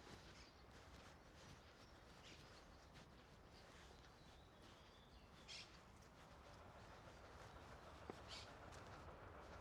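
Near-silent garden ambience with a faint steady background hum and a few short, high bird chirps spread across the moment.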